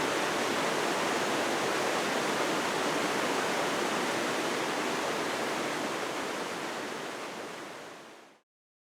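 Steady, even rushing noise with no pitch or rhythm, which fades out over the last two seconds and stops.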